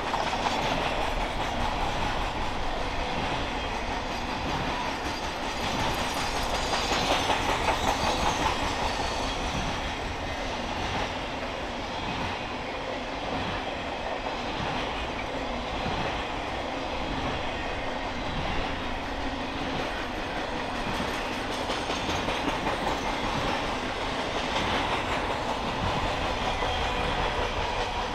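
Norfolk Southern Triple Crown RoadRailer freight train rolling past, its wheels clicking steadily over the rail joints under a continuous rumble, a little louder about a quarter of the way in and again near the end.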